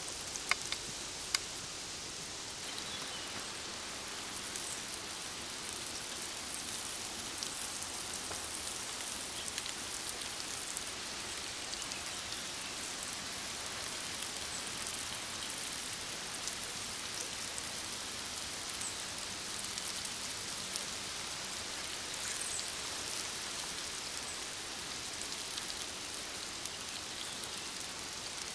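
Steak sizzling over a campfire: a steady hiss with small pops and crackles.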